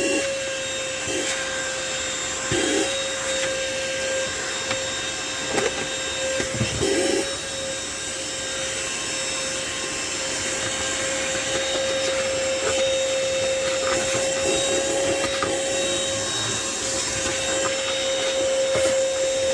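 Handheld car vacuum running with a steady motor whine, being tested for suction strength, with a few brief knocks and rubs of the nozzle against surfaces.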